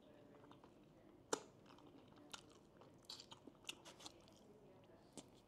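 Quiet chewing and crunching of fried food, with scattered faint crackles and clicks, the sharpest about a second in and a cluster around three seconds in.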